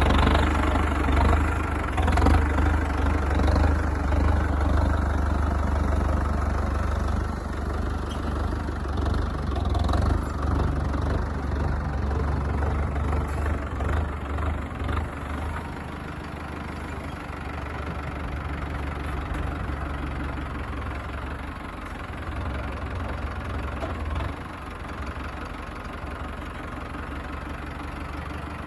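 Diesel tractor engine running, louder over roughly the first half and then settling to a lower, steadier level.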